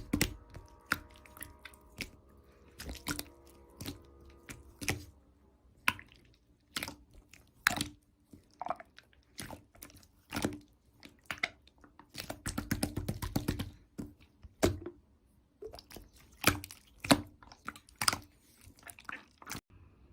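Slime being squished and worked by hand, making irregular sharp clicks and pops as air pockets burst. About twelve seconds in there is a quick run of crackling.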